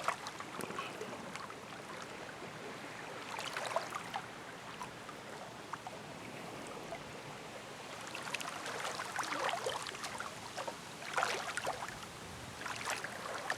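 Steady background hiss with a few brief patches of soft clicking and rustling, about four seconds in, around eight to ten seconds in, and again near the end.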